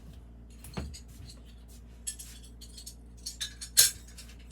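Small glazed ceramic pieces clinking and knocking against each other and a hard surface as they are handled, a few scattered clicks at first, then a busier run of clinks with the loudest one near the end.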